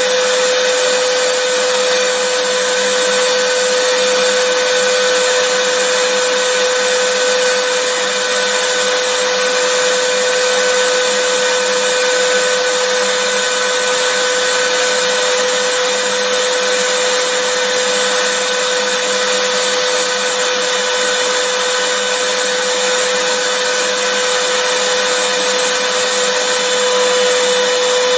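Vacuum cleaner running continuously at a steady speed, a constant rushing noise with a steady whine from the motor.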